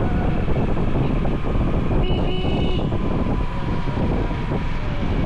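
Steady rumble of road traffic, with a short vehicle horn toot about two seconds in.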